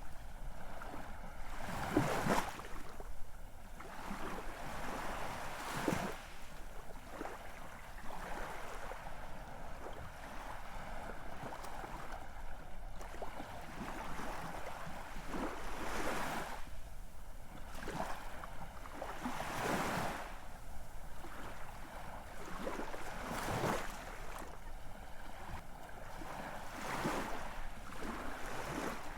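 Ocean waves breaking and washing onto a shore, a steady hiss of surf with a stronger surge every few seconds.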